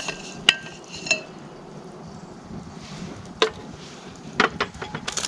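Metal camp cookware being handled: a sharp clink with a brief metallic ring about half a second in and another soon after, then a few scattered light clicks and knocks.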